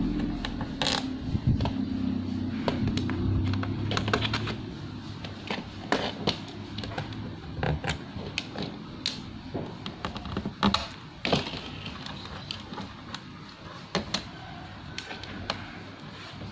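Irregular clicks and light knocks of hands working on a laptop's plastic case and internal parts during a RAM and SSD installation.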